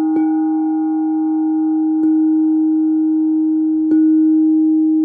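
Singing bowls struck softly three times, about two seconds apart, each strike renewing one long steady ring with a few higher overtones above it.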